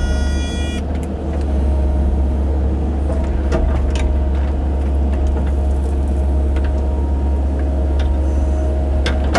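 Excavator diesel engine running steadily, with a high whine that stops about a second in and a few sharp knocks from the machine at work.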